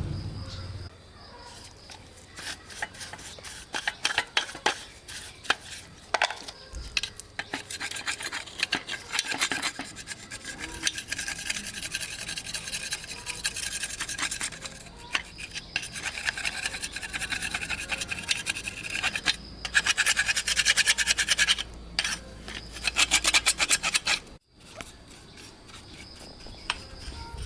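A hand tool scraping and rasping on metal in rapid back-and-forth strokes, in several stretches with short pauses between them.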